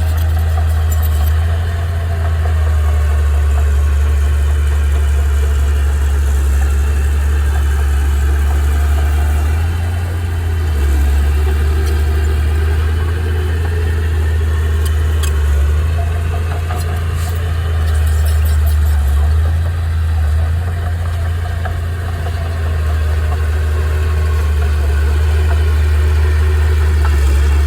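Heavy machinery engine running continuously, its level swelling and easing a little as the load changes.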